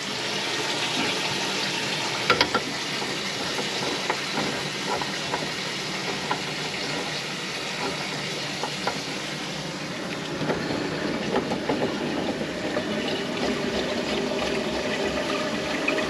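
Water running steadily from a kitchen faucet into a sink, with scattered small clicks and knocks; a faint steady hum joins near the end.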